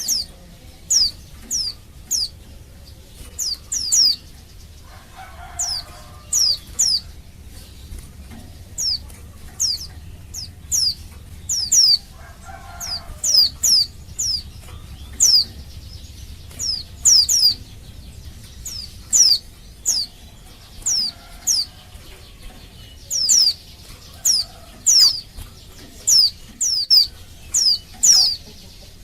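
Female white-eye (pleci) calling: short, thin, high chirps that each slide downward, given singly or in quick pairs and triplets about once a second. It is the excited call of a female in breeding condition, used to provoke male white-eyes into answering and singing.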